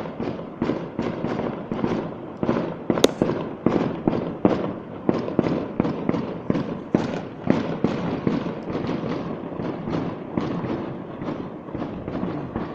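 Fireworks going off in rapid succession, many bangs a second overlapping into a continuous crackle, with one sharper crack about three seconds in.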